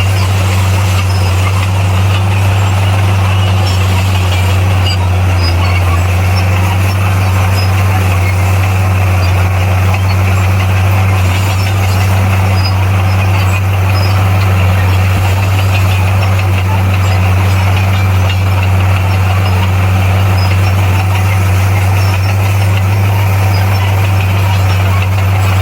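Bulldozer's diesel engine running steadily at a constant, loud drone, with no change in pitch.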